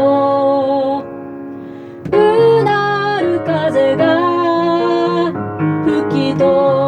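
Music: a slow song, sung with guitar accompaniment. It drops quieter for about a second, about a second in, then the singing and guitar come back in full.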